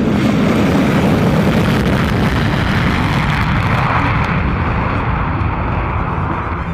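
Jet engines of a B-1B Lancer bomber (four General Electric F101 turbofans) running at high power: a loud, continuous rushing noise that swells toward the middle and eases slightly near the end.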